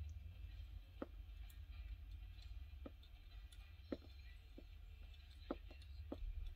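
Faint, scattered small clicks and taps from handling a die-cast toy car, about eight of them at uneven intervals, over a low steady hum.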